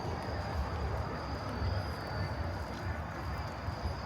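Crickets trilling in a steady high tone over a low rumble of city noise.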